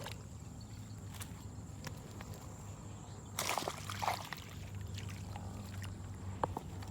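Water sloshing and splashing briefly, about three and a half seconds in, over a steady low hum, with a few faint clicks.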